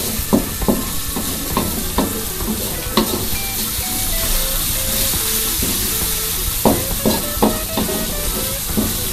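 Ground spice paste sautéing in an aluminium wok with a steady sizzle, while a wooden spatula stirs it, scraping and knocking against the pan now and then.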